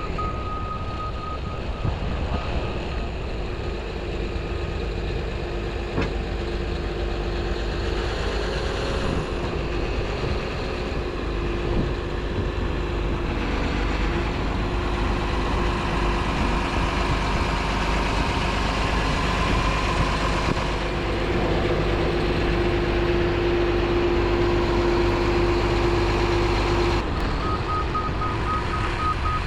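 Caterpillar 725 articulated dump truck running while it is inched into position, its backup alarm beeping in the first second or so and again near the end. Between the beeps, a steady whine rides over the engine.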